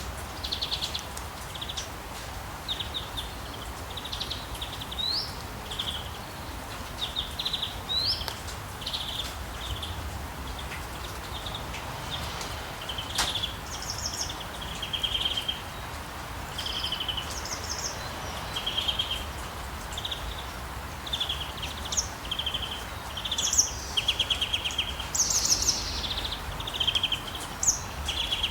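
Rainforest ambience: many short bird chirps and trills, a few rising notes among them, growing busier and louder in the second half, over a steady hiss of rain and a low rumble.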